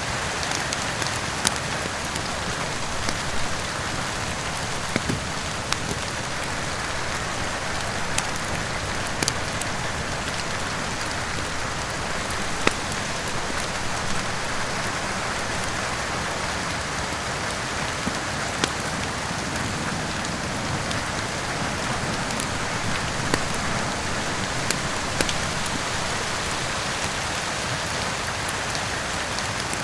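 Steady heavy rain with a crackling wood fire: an even, dense hiss of rain, broken by sharp single pops every second or two.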